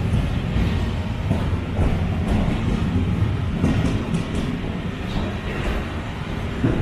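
A train running along the track: a steady, heavy rumble with a few sharp knocks from the wheels scattered through it.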